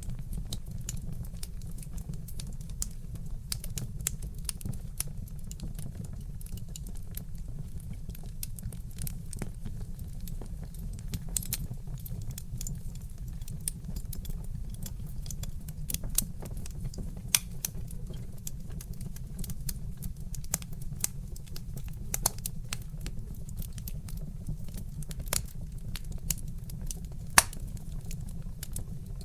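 Wood fire crackling: irregular sharp pops and snaps of burning logs over a steady low rumble, with a couple of louder pops about halfway and near the end.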